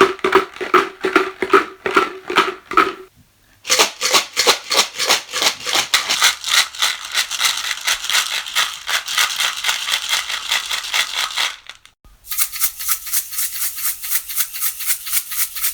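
Homemade shaker containers filled with plastic pieces, pasta and beads, shaken fast in turn to compare how loud each is. There are three bouts of rattling, with short breaks after about three seconds and around twelve seconds; the last bout is higher and brighter than the first.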